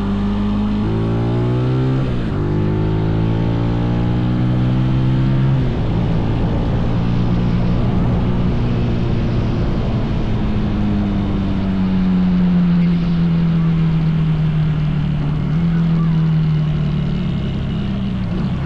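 Small mini bike engine running under way, its pitch climbing with speed, dropping sharply about two seconds in, climbing again, then sinking slowly in the second half, with a steady rush of wind.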